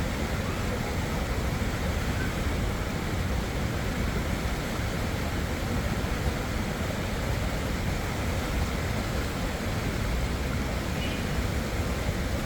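Water of a natural spring flowing in a steady, unbroken rush.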